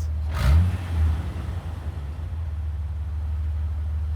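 A 2005 Jeep Wrangler LJ's 4.0-litre inline-six idling through a new MBRP exhaust, with a quick blip of the throttle about half a second in and a smaller one just after, then settling to a steady, deep idle. Its sound is called "so much quieter" and still having "some grunt".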